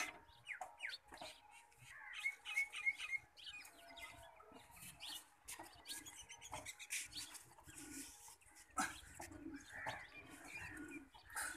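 Birds chirping on and off, with a few faint knocks.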